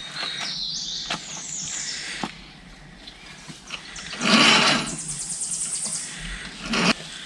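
A bird singing a run of short high notes that step upward, then a fast high trill about five seconds in. Two louder bursts of noise break in, about four seconds in and near the end.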